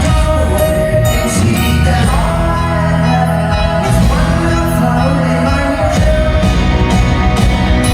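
Live 1960s pop-rock band playing with singing, loud through a concert sound system.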